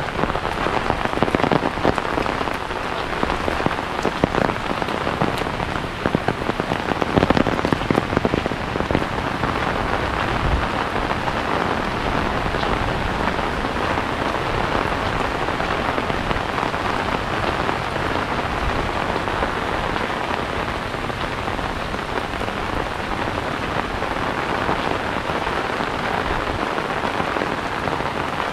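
Steady rain falling on a paved lane and roadside plants and hitting an umbrella overhead, with a few louder, uneven gusts of drops in the first several seconds before it settles to an even hiss.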